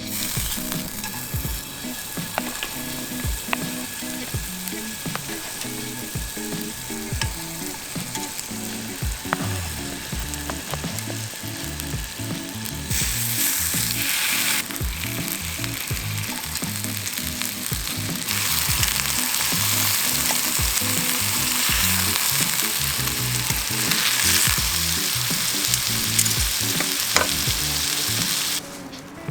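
Food sizzling on a hot pan over a wood fire, a steady hiss that grows louder about halfway through and again a few seconds later, with an occasional tick.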